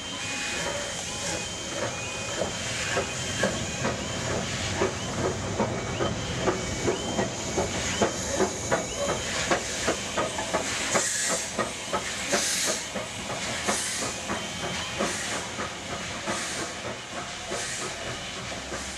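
Steam locomotive working, with steam hiss and a dense rattle and clatter of motion and wheels on rail. About halfway through, sharp exhaust beats come through, evenly spaced at a little under one a second.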